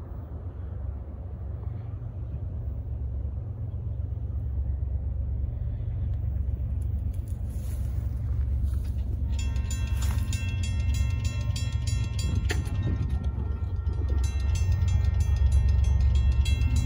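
Approaching Union Pacific freight train, a deep rumble growing steadily louder. About nine seconds in, the grade crossing's warning bell starts ringing in a steady repeating pattern as the gates come down.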